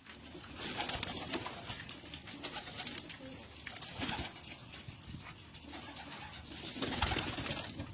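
Red domestic pigeons cooing, with bursts of rustling; the rustling swells about a second in, again around four seconds, and most strongly around seven seconds.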